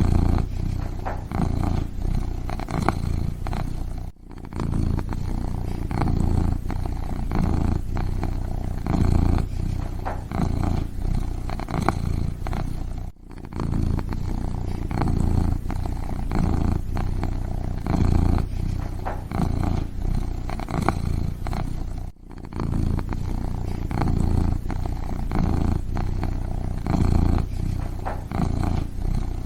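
Kitten purring steadily in a continuous pulsing rumble, with three brief dips in level about nine seconds apart.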